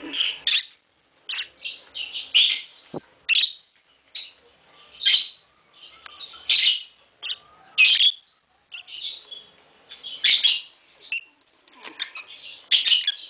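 Pet lovebirds chirping: short, shrill, high calls come every second or so, sometimes several in quick succession. A single sharp click sounds about three seconds in.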